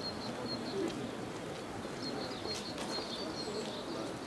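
Birds chirping outdoors: short high notes repeated a few times a second over a steady background of outdoor noise.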